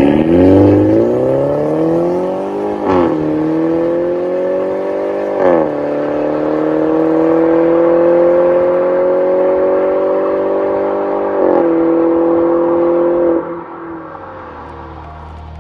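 BMW 120i's B48 turbocharged four-cylinder through an MS-R valved cat-back exhaust, accelerating hard through the gears: the note climbs, drops sharply with a short crack at two upshifts in the first six seconds, climbs slowly in the next gear and drops again at a third shift. Near the end the throttle is lifted and it falls to a low drone.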